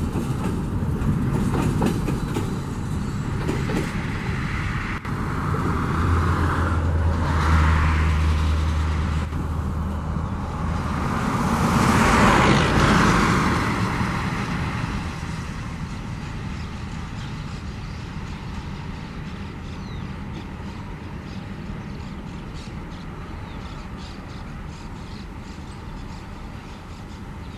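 Loaded freight train's wagons rolling and clattering on the rails as the tail of the train moves away, the sound fading through the second half. About twelve seconds in, a louder pass-by swells and dies away.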